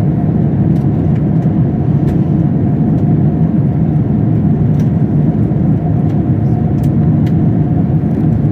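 Steady low roar of airflow and engines inside an Airbus A350-1000 cabin in flight, with a faint steady hum and scattered light ticks and rattles from cabin fittings in light turbulence.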